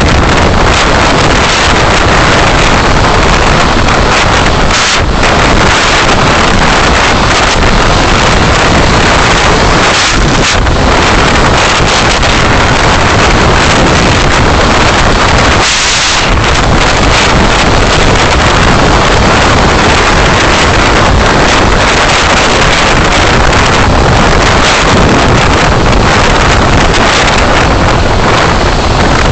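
Loud, steady road and wind noise from a car being driven, picked up by a dashcam microphone, with a brief sharper hiss about halfway through.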